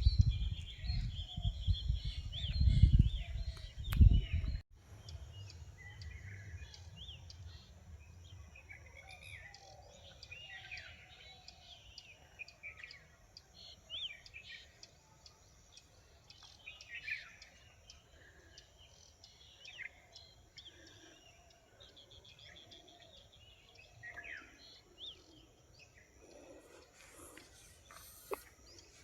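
Wild birds chirping and calling: many short, scattered calls at varied pitches, some rising or falling. For the first four and a half seconds a loud low rumble lies under them, then stops abruptly.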